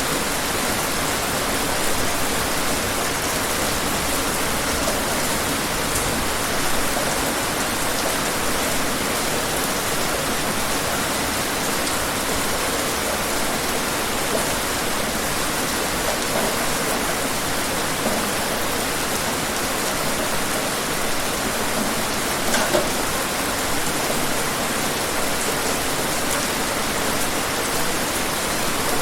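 Steady, heavy rain falling, a dense even hiss with occasional individual drops pattering on a surface.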